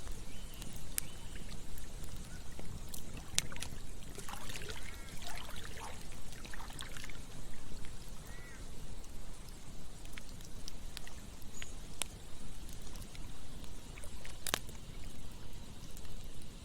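Campfire crackling with a few sharp pops over a steady low rush of flowing water, with short gurgling sounds in the middle.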